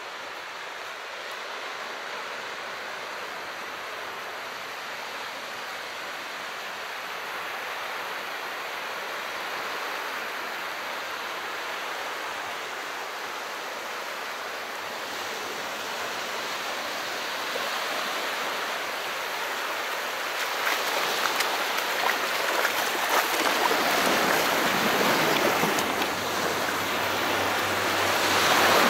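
Calm sea water washing in steadily, swelling gradually as a wave comes in. It is loudest in the last third, where a fizzing crackle of foam joins the wash.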